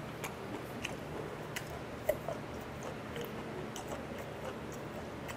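A man chewing a mouthful of raw jeonbokchi sashimi: soft, wet mouth clicks at uneven intervals, one a little louder about two seconds in.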